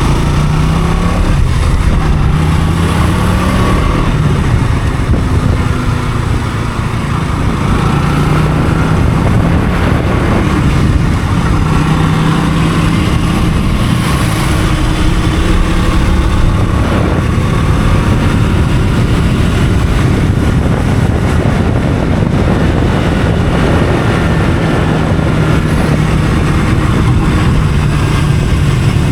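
Motorcycle engine running under way, its pitch rising and falling a little as it goes, over a loud steady rushing noise.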